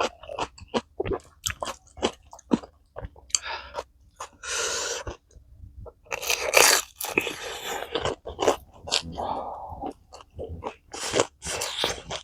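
Close-miked eating sounds: wet chewing and crunching bites of food, with many sharp mouth clicks, and two longer breathy noises, one a little after four seconds and one from about six to eight seconds in.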